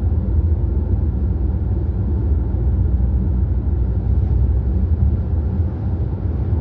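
Motorcycle cruising at highway speed: a steady low engine drone mixed with wind and road rumble.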